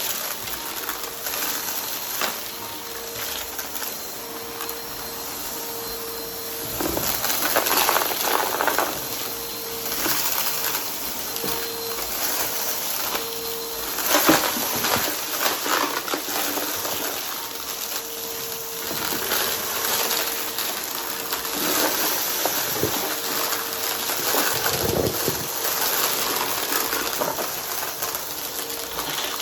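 Brushroll vacuum cleaner running steadily with a high hiss, with irregular crackles and crunches as it sucks up crunchy debris, loudest in a couple of bursts partway through.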